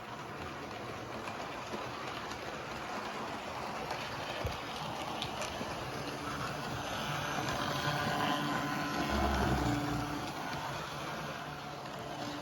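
A train approaching and passing, its running noise building to a peak about nine to ten seconds in, with a low rumble at the loudest point, then easing.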